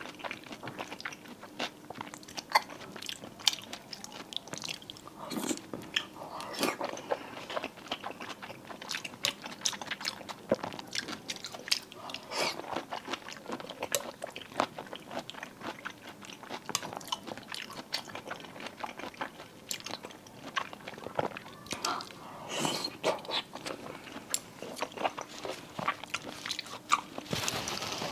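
Close-miked eating: a person biting into and chewing cold marinated seafood, with crisp crunches and wet chewing clicks that come in bunches every few seconds.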